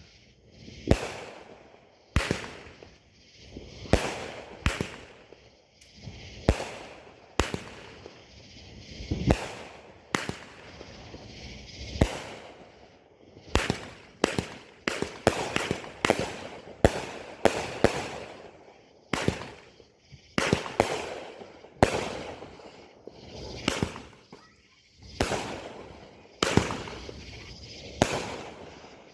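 Fireworks going off in quick succession: a long series of sharp bangs about once a second, with a hissing haze trailing between them.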